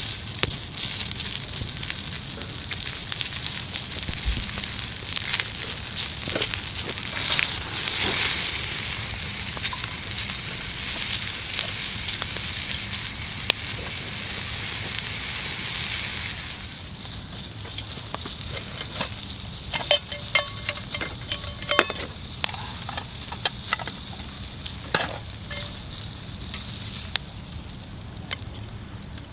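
Chicken thighs sizzling on a hot griddle plate over a wood fire. The sizzle is loud at first and eases off about halfway through, after which there are scattered sharp clicks and taps, some with a short metallic ring.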